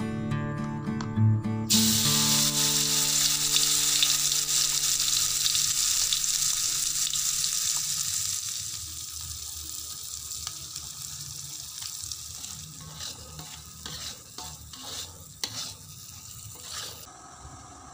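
Ground spice paste dropped into hot oil in a wok, sizzling loudly at first and then dying down as it is stirred, with a spatula scraping and clinking against the wok near the end. Guitar music plays briefly at the start.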